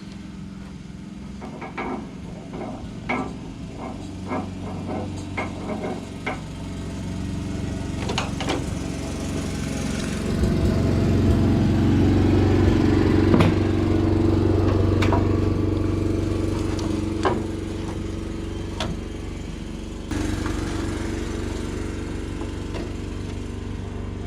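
Scattered metal clicks and knocks of hand tools being used on a small engine's carburetor mounting and linkages. Under them runs a steady engine-like hum that swells about ten seconds in and eases off later.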